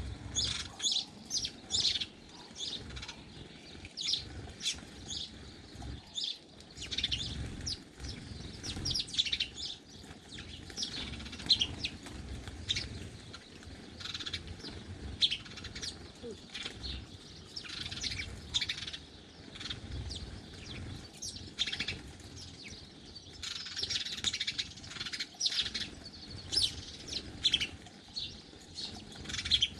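Small garden birds chirping and twittering at a feeder: many short, high chirps in quick, overlapping runs throughout, over a faint low rumble.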